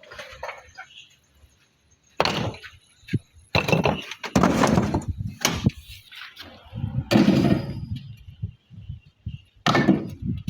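Irregular knocks and scrapes of hard objects, several sharp hits with longer scraping noises between them, most of them from about two seconds in to eight seconds, and another hit near the end.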